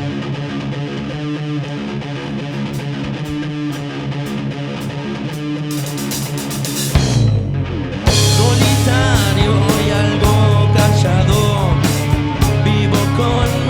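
Live rock band playing, with electric guitar. It is quieter for the first half, then the full band comes in louder about eight seconds in, with cymbals and a voice.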